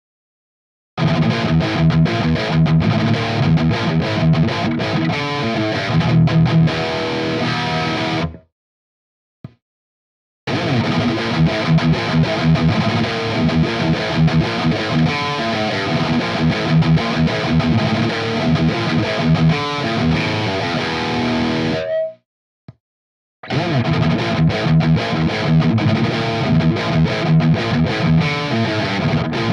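Distorted electric guitar riffing through an Earthquaker Devices Plumes overdrive pedal into an EVH 5150III amp, close-miked on a Mesa cabinet's Vintage 30 speaker. Three passages, cut to dead silence twice, about eight seconds in and again about twenty-two seconds in.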